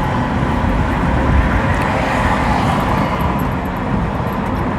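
Road noise from inside a moving car on a highway: steady tyre and engine rumble with wind hiss, as trucks pass close by at speed.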